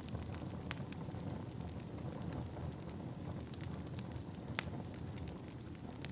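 Wood fire burning in a fireplace: a steady low rumble of flames with scattered sharp crackles and pops, two louder pops about a second in and near the end.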